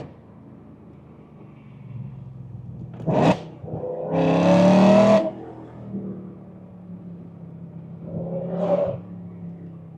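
BMW E92 M3's S65 V8 with titanium exhaust, heard from inside the cabin: a steady low hum, a sharp short rev about three seconds in, a loud pull with rising revs for just over a second that cuts off, and another short rev near the end.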